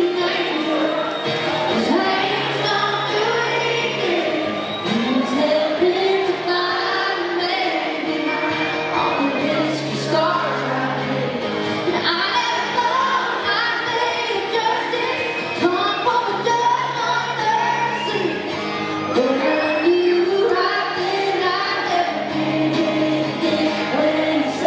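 Live country band playing a slow song with a lead vocal singing over it.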